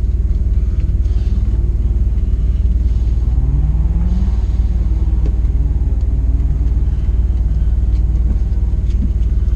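Steady low rumble with a car engine that revs up about three seconds in, then holds a steady pitch.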